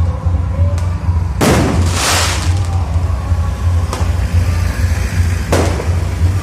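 Fireworks going off: one big burst about a second and a half in with a crackling tail, then sharper single bangs around four and five and a half seconds. A constant low throb runs underneath.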